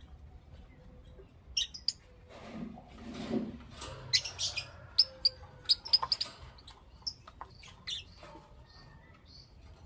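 Pet lovebirds chirping: short, sharp chirps in several quick clusters, with a brief soft rustling noise about three seconds in.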